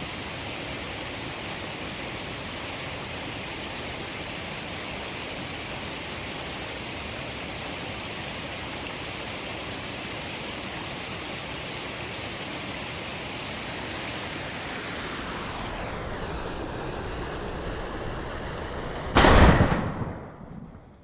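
Steady hiss, then a single rifle shot about nineteen seconds in, loud and sudden, dying away over about a second.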